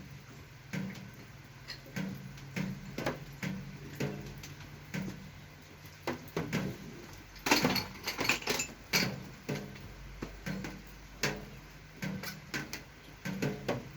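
Irregular clicks and knocks of tools and parts being handled during work on a bicycle suspension fork, with a denser clatter about two-thirds of the way through, over a steady low hum.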